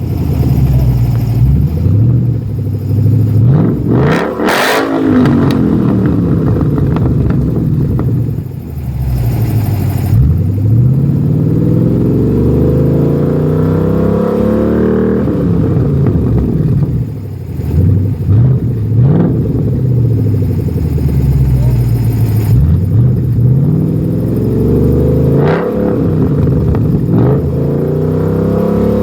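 2014 Mustang GT's 5.0 L V8 through a Bessani axle-back exhaust, revved several times, its pitch climbing and falling back between revs.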